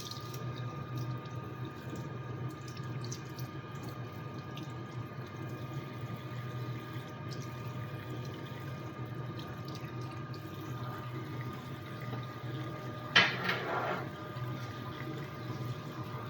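Metal lathe running steadily at machining speed, with a steady hum and a few steady tones under a wash like flowing liquid. A short, sharp clatter comes about 13 seconds in.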